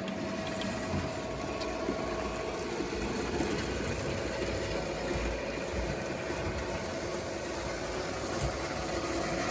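Model trains running on the layout: a steady rumble of electric motors and wheels rolling on the track, with a faint steady hum.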